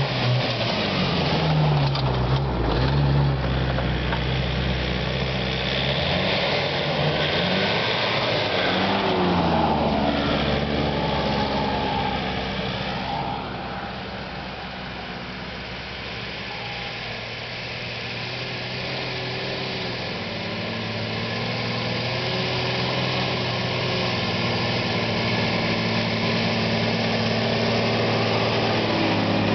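Four-wheel-drive engines on a snowy track. In the first half one revs and drives past, its pitch rising and falling. After a quieter spell, a Nissan Patrol's engine runs steadily at low speed and grows louder as it comes close.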